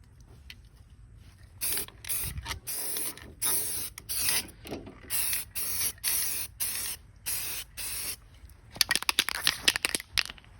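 Aerosol spray-paint can sprayed in repeated short hissing bursts, roughly two a second. Near the end, a quick run of loud rattling clicks.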